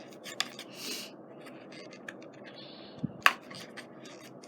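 Handling noise from a new dispenser box of scrapbooking mounting tabs being worked to pull the strip out, which is sticking: small clicks and scratches, with one sharp click a little past three seconds in.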